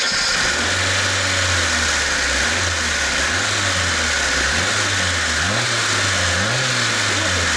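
VAZ 2104 carburetted four-cylinder engine running just after starting, with the carburettor top cover off, so a loud even intake hiss sits over the engine note. The revs waver and rise briefly twice in the second half.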